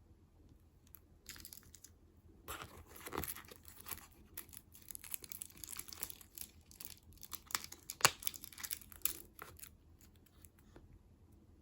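A snack wrapper being torn open and crinkled: a dense run of crackles and rips starting a couple of seconds in, with one sharp snap about two-thirds of the way through, dying away a couple of seconds before the end.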